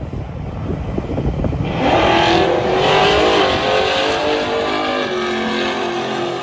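Drag-racing street car launching off the line and accelerating hard down the strip, rough rumble first, then the engine pitch climbing about two seconds in and holding as the car pulls away.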